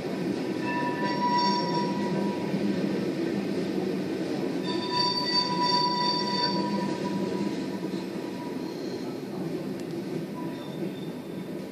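Freight train of tank cars rolling past, a steady rumble of wheels on rail joints. High squealing from the wheels comes in about a second in and again around five seconds, with a fainter squeal near the end.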